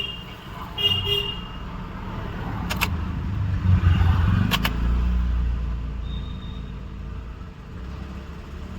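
Mahindra Bolero Neo's ignition switched on and off without cranking the engine: a few sharp clicks and two short high beeps near the start. A low rumble swells in the middle and fades away.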